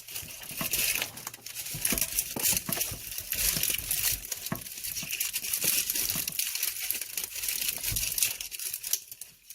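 Packaging crinkling and crackling as it is handled and pulled at, a busy run of small crackles and clicks throughout, while someone tries to open it by hand.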